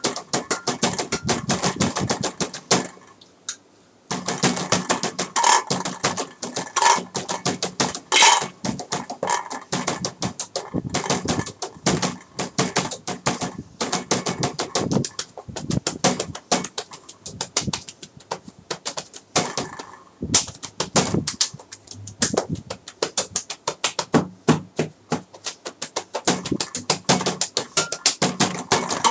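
Fast, dense tapping and clicking on small household objects played by hand as improvised percussion, with a brief pause about three seconds in.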